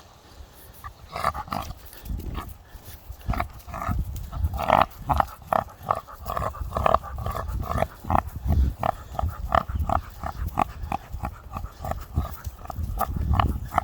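American pit bull making a rapid, irregular string of short pig-like noises, one after another, with barely a pause between them.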